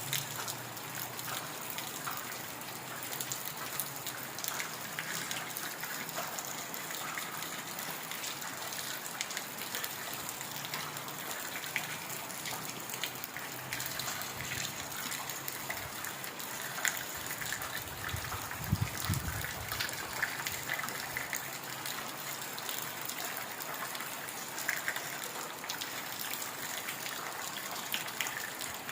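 Steady heavy rain: a dense hiss of falling water with close drops pattering on surfaces. A brief low rumble swells and fades about two-thirds of the way in.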